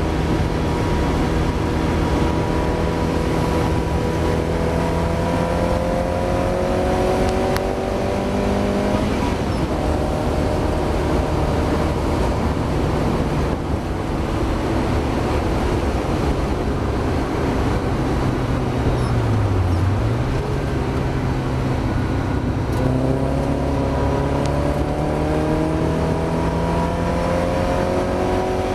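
Mazda MX-5 race car engine heard from onboard under hard racing. The engine note climbs steadily through the revs, turns rougher after about nine seconds, dips briefly about twenty seconds in, then climbs again near the end. The car is racing with an engine misfire.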